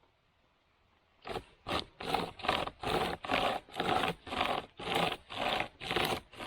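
Pocket chainsaw, a hand-pulled saw chain with strap handles, cutting into a dry, sun-baked hardwood log. After about a second of quiet, it rasps in quick, even back-and-forth strokes, about two and a half a second.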